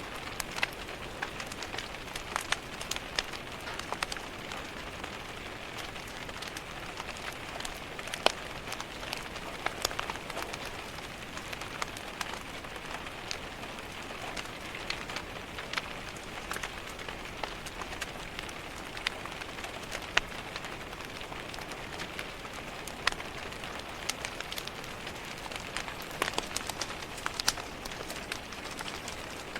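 Steady rain pattering on a window, mixed with the crackle of a wood fire in a fireplace: an even hiss sprinkled with frequent sharp pops and clicks.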